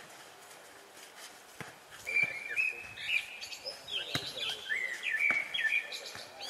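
A bird singing a run of clear whistled notes that step up and down through the second half, over several sharp knocks of a futnet ball being kicked and bouncing on the asphalt court.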